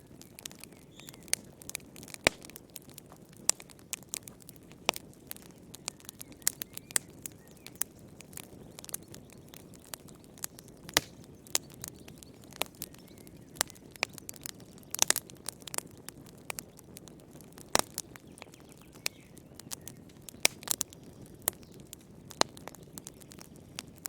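Wood fire crackling in a fireplace: irregular sharp pops and snaps several times a second over a low steady hiss of flames, with a brief cluster of louder pops about fifteen seconds in.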